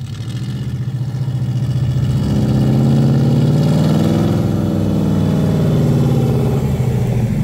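Off-road 4x4's engine pulling under load, its pitch and loudness climbing over the first three seconds, then easing a little and holding steady.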